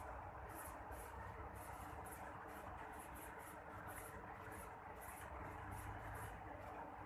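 Night insects chirping in short, high-pitched pulses a few times a second over a faint steady hiss.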